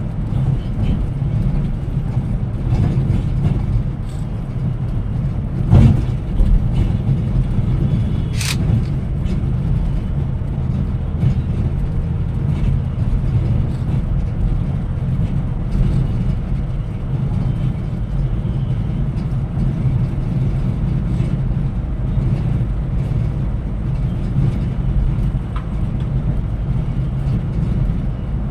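Scania Metrolink multi-axle coach on the move, a steady low rumble of engine and road noise. There is a thud about six seconds in and a short sharp click a couple of seconds later.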